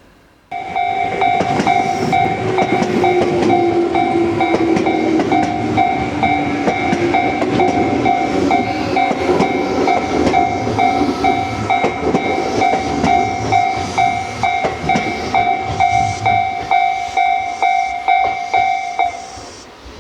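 A train passing, its wheels clicking regularly over the rail joints, under a steady pulsing electronic alarm tone that starts suddenly about half a second in and stops near the end, the pattern of a Japanese level-crossing warning bell.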